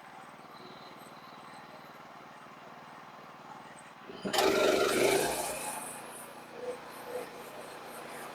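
Skid steer engine running steadily, then revved up hard about four seconds in; it is loud for about a second and a half before settling back. The engine has a miss, which the owner suspects is an injector.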